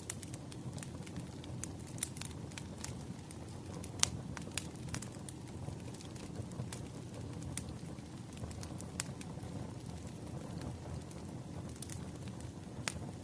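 Wood fire crackling: a steady low rumble of burning logs with irregular sharp pops and snaps, the loudest about four seconds in and another near the end.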